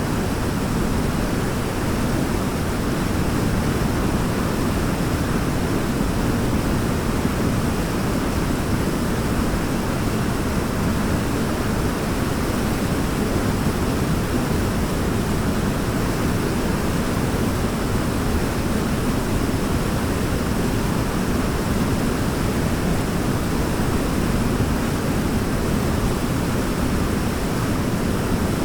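Waterfall: a steady, unbroken rush of falling water, deep and even, weightiest in the low tones.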